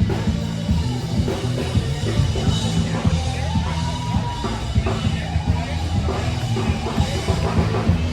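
Live rock band playing: a drum kit with bass drum and snare keeping a steady beat over bass notes, and a held note that bends up and down about three to four seconds in.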